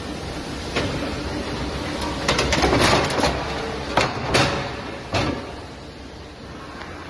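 Pallet repair flip table in use, with wooden and metal knocks and clattering over a steady machine hum: a dense run of clatter a couple of seconds in, then three single sharp knocks.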